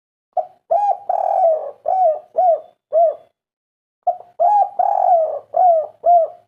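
Spotted dove (tekukur, derkuku) singing its 'kuk 3' song: two cooing phrases, each a short opening note and a longer drawn coo followed by three separate short coos.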